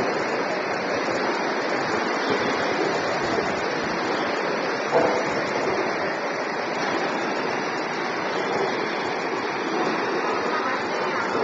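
Steady machine noise, a dense even hiss, with a single brief knock about five seconds in.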